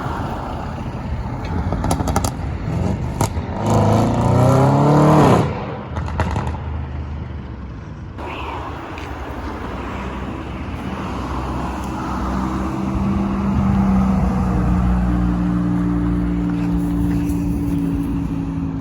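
Car engine revving hard, its pitch climbing for about two seconds before cutting off abruptly. It is followed by the steady drone of an engine whose pitch sinks slowly near the end.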